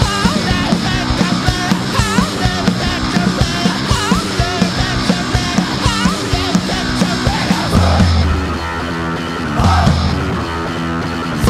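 Punk rock band playing: fast, dense drums under distorted guitars, with a lead line of bending, wavering notes for about the first seven seconds. Heavy low notes come in near the end.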